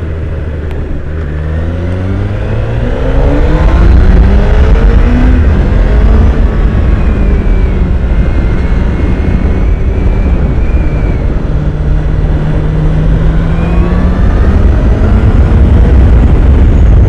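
2016 Honda CBR1000RR SP's inline-four engine on its stock exhaust, revving up steadily over the first three seconds under acceleration. It then runs hard at speed with its pitch rising and falling with the throttle, under a heavy rush of wind.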